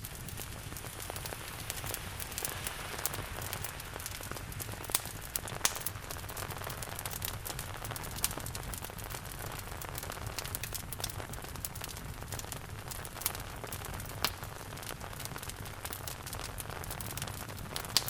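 Steady rain falling together with a wood fire crackling, with dense small crackles and a few louder sharp pops every few seconds.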